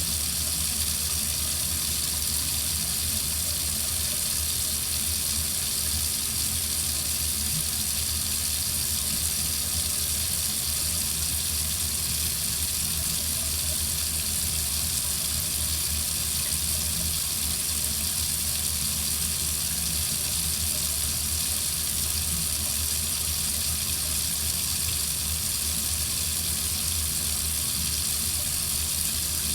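Water faucet running in a steady, unbroken stream: an even hiss with a low rumble underneath.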